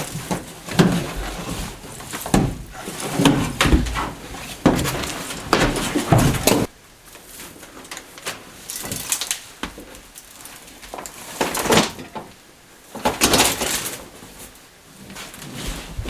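Car floor carpet and underlay being pulled up and handled: irregular rustling, scraping and knocking. It is busy for the first six seconds or so, then comes in a few separate bursts.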